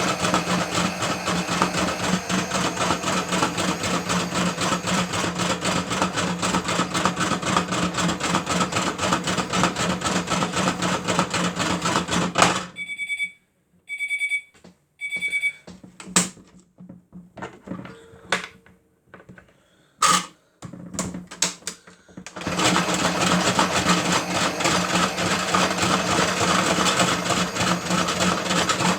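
Miele W1 toy washing machine spinning with batteries rattling in its drum over the hum of its small motor. The spin stops about thirteen seconds in, the toy beeps three times, a few clicks and knocks follow, and the spin and battery rattle start up again about twenty-two seconds in.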